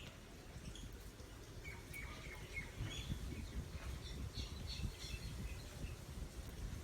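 Parrots calling: many short squawks and chirps from about a second and a half in, over a low rumble.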